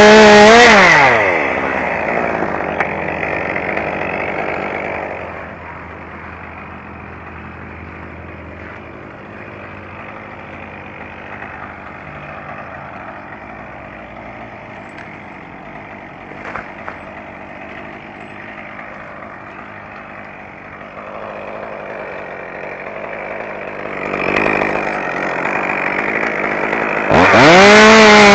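Petrol chainsaw at full throttle, let off about a second in and left running quietly at idle for most of the stretch, then revved back up to full throttle near the end.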